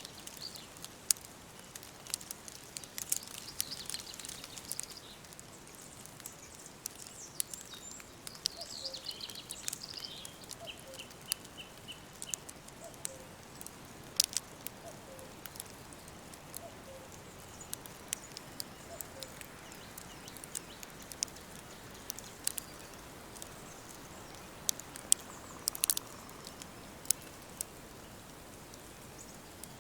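Woodland songbirds singing over a soft steady hiss. There are two phrases in the first third, one ending in a quick trill, and faint, softly repeated low calls in the middle. Sharp crackling clicks like a burning wood fire sound throughout, with a cluster near the end.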